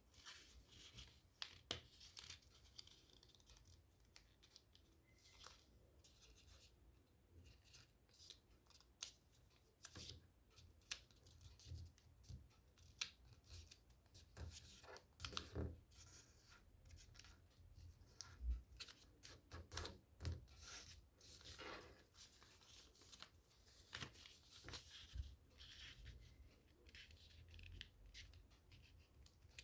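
A sheet of origami paper being folded and creased by hand: quiet, irregular crackles and rubs of the paper.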